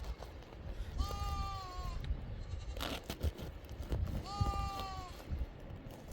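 A sheep or goat bleating twice, each bleat about a second long, steady in pitch and dropping slightly at the end, about three seconds apart.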